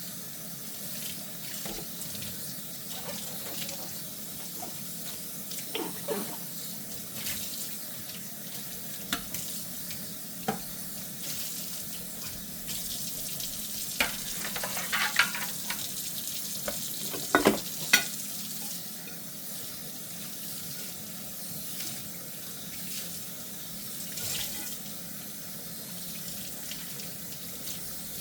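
Tap water running steadily into a kitchen sink during handwashing of dishes, with scattered knocks and clinks of dishes, loudest in a cluster about two-thirds of the way through.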